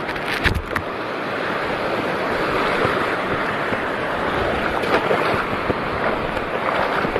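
Sea water washing and sloshing, with wind noise on the microphone; a few sharper splashes in the first second.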